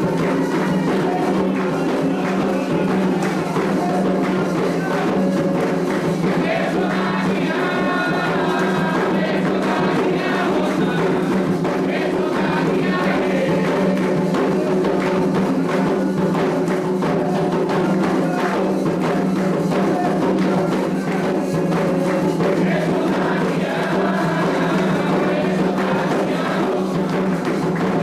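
Candomblé ritual music: hand drums and percussion beating a steady, continuous rhythm under group singing.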